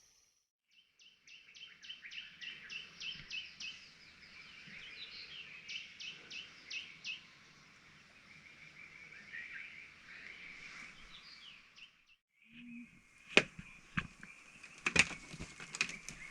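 Small frogs calling after rain, in rapid trains of short, clicky high notes repeated several times a second. About 12 seconds in, the calling breaks off briefly and gives way to a steady high trill with a few sharp knocks.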